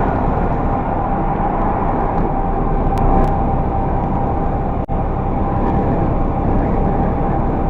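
Steady road and engine noise of a car driving, as picked up by a dashcam inside the vehicle, with a faint steady whine under it and a brief break about five seconds in.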